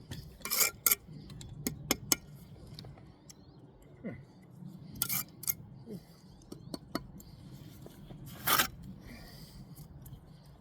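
Steel trowel scraping and tapping on brick and mortar: a string of sharp clicks and short scrapes, with a longer scrape near the end.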